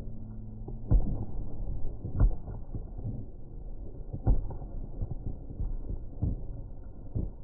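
Fireworks shells bursting: a series of deep, muffled booms over a continuous rumble, the loudest about one, two and four seconds in, with smaller ones after.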